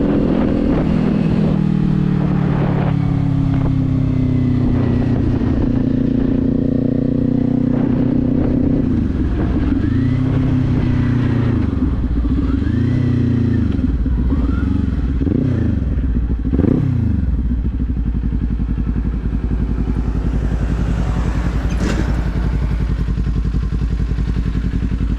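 Kawasaki Z400 parallel-twin engine running under the rider. About ten seconds in, the engine note climbs and drops four or five times in quick succession, then settles to a steady low note.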